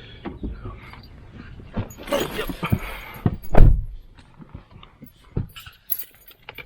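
Rustling and scattered knocks of someone moving about and handling things. One loud thump comes about three and a half seconds in.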